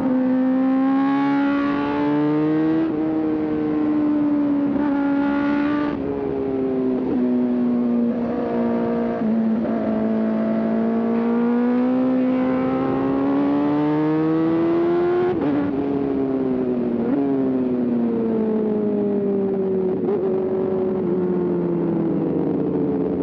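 Sport motorcycle engine heard from the rider's seat, pulling through the gears: the pitch climbs and drops sharply at upshifts about 3, 6 and 15 seconds in, then falls away twice as the bike slows.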